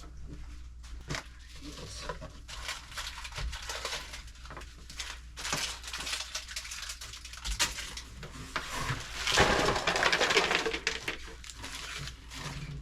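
Pantry goods being handled: packaging rustling and crinkling, with light knocks and clatters of boxes and containers. The rustling is loudest for a couple of seconds about three-quarters of the way through.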